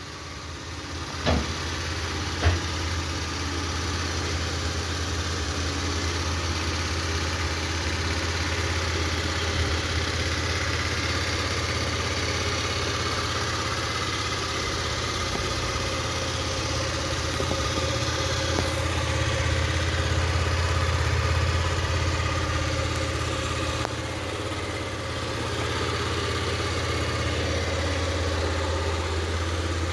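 Motorcycle engine idling steadily, with two sharp clicks about a second apart near the start.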